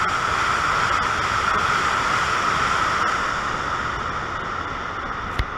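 ICE high-speed train running past with a steady rushing noise that slowly eases off, and one sharp click shortly before the end.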